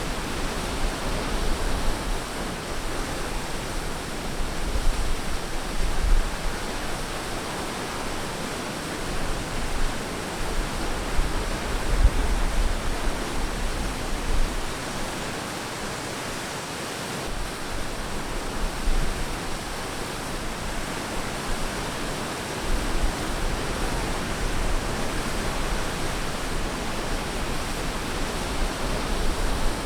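Ocean surf washing onto a beach: a steady rush of water noise that swells every several seconds.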